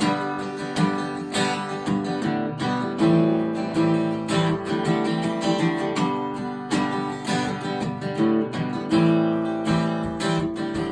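Acoustic guitar strummed in a steady rhythm as an instrumental passage of a folk song, the chords changing every few seconds.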